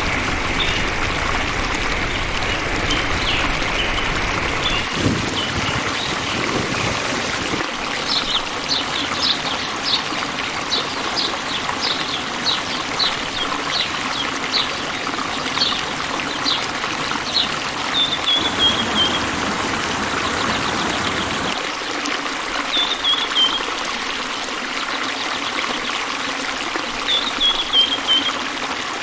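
Water trickling steadily, with a bird chirping over it: a run of short, quick chirps through the middle, then a short falling trill three times.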